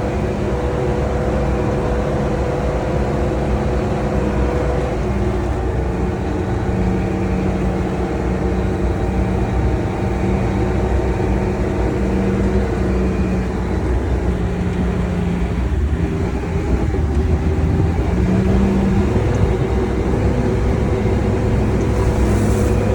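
Sherp all-terrain vehicle's diesel engine running steadily under load during a winch recovery, its note shifting slightly in pitch a few times.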